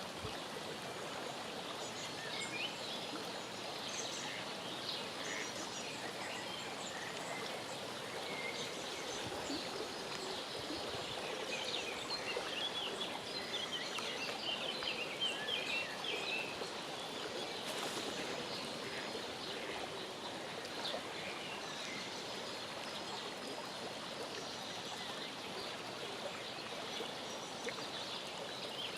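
Many short, high chirps and peeps from small birds, thickest about halfway through, over a steady outdoor background hiss.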